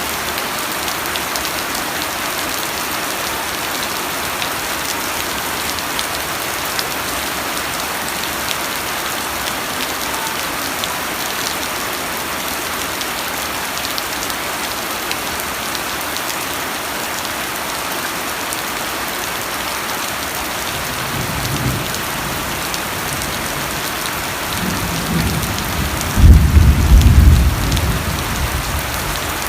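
Steady, heavy rain falling on a surface. Near the end, a low rumble of thunder builds and peaks loudly, then fades.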